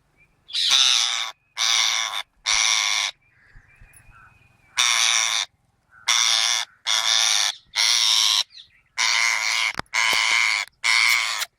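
A green parrot squawks about ten times in irregular groups, each call loud and harsh. These are distress calls from a bird tangled in netting while people try to free it.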